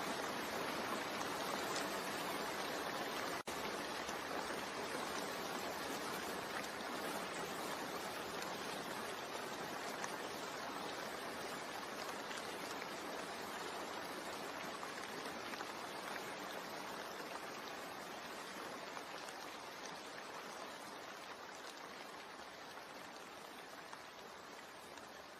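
Steady rain, an even hiss of falling drops, fading slowly out, with a split-second dropout a few seconds in.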